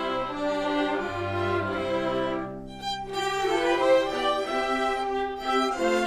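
String ensemble of violins and cellos playing sustained bowed notes, with a short break in the phrase about two and a half seconds in.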